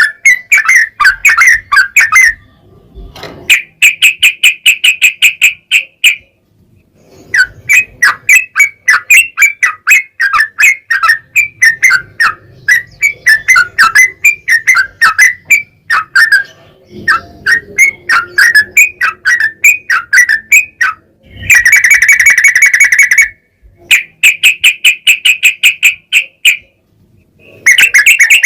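Yellow-vented bulbul (trucukan) singing long runs of rapid, repeated chattering notes, one run after another with short pauses between them.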